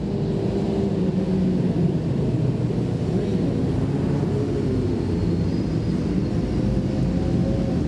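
Several racing motorcycle engines running together, a dense engine drone whose overlapping notes waver and shift in pitch, with a few notes climbing in the second half.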